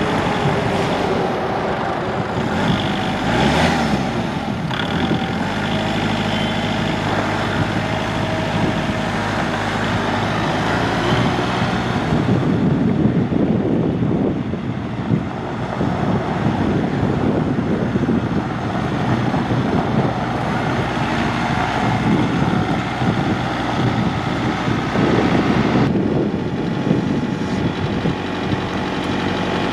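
Kubota L4701's four-cylinder diesel engine running steadily, with a brief rise and fall in engine speed about three to four seconds in.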